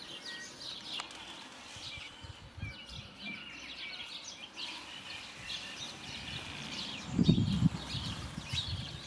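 Sparrows and other small garden birds chirping and twittering in quick, scattered short calls. A brief low rumble comes about seven seconds in.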